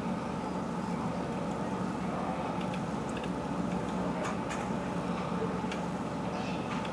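A steady low engine hum, with a few faint ticks scattered through it.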